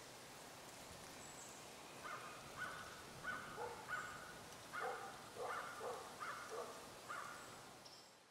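A bird calling repeatedly, about ten short calls at irregular intervals over faint outdoor hiss, fading out near the end.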